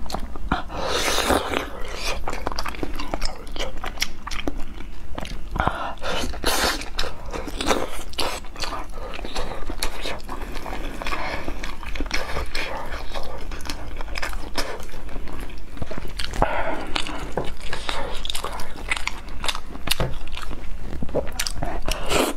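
Close-miked chewing and biting of braised pork knuckle meat and skin, with many short mouth clicks and smacks.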